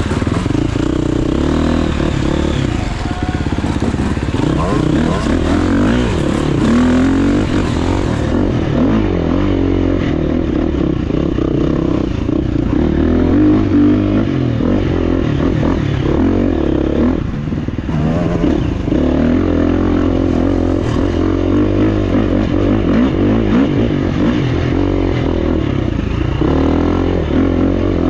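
GasGas EX350F four-stroke single-cylinder dirt bike engine on the trail, the throttle opening and closing constantly so the pitch rises and falls, with a brief let-off about seventeen seconds in. Clattering and scraping from the bike come through under the engine.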